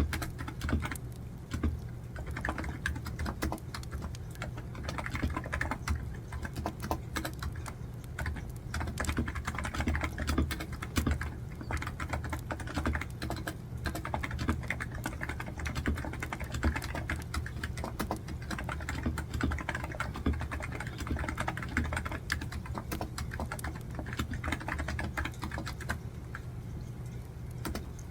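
Computer keyboard typing: a steady, fast stream of key clicks, over a constant low hum.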